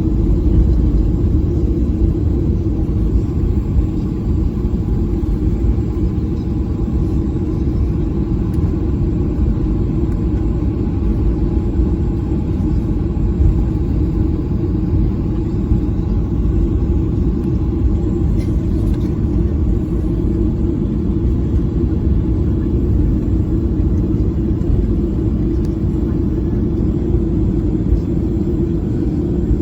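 Steady, loud rumble of a Boeing 737's engines and airflow heard from inside the passenger cabin, unchanging throughout.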